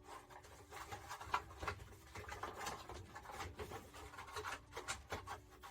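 Flexible heater duct being pushed and twisted into place behind a dashboard: faint, irregular rubbing and scraping with small clicks.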